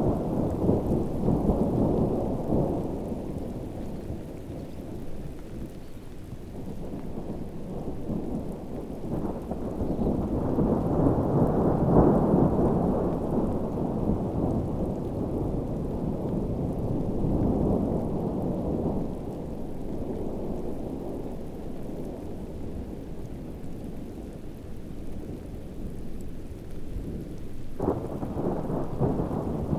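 Heavy rain with rolling thunder, a deep rumble that swells and fades in long waves, loudest about a third of the way in and again near the end.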